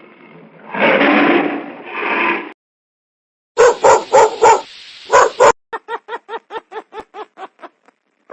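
Animal calls. A noisy, breathy sound comes first, then after a short silence about six short barking calls, then a quick run of about a dozen short calls that fade out.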